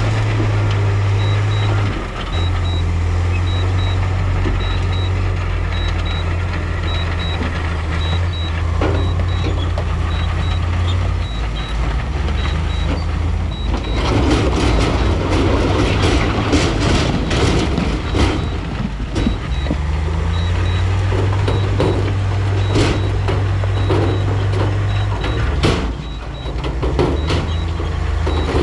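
Heavy earthmoving machine's diesel engine running steadily under a repeating reversing-alarm beep. From about halfway in, loud clattering knocks of rock join it.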